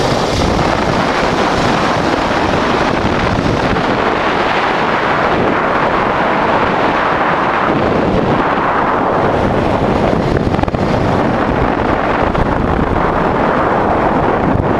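Wind rushing over the microphone of a 1988 Honda Transalp under way, steady and loud, with the motorcycle's engine running beneath it.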